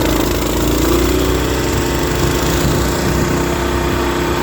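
Coleman mini bike's small single-cylinder engine at full throttle during a drag-race launch: the revs climb and then hold steady, with wind noise from riding.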